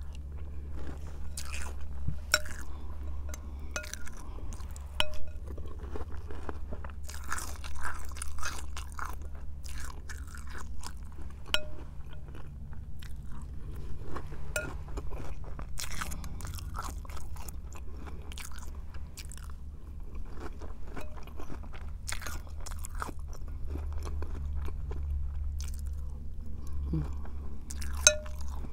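Close-up chewing and crunching of Cap'n Crunch's Christmas Crunch cereal in milk, eaten by the spoonful, with many small irregular crunches and mouth sounds.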